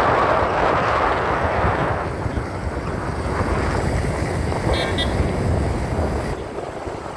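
Wind rushing over the microphone and the rumble of a motorbike riding along a road, loudest in the first two seconds, with a brief vehicle horn toot about five seconds in.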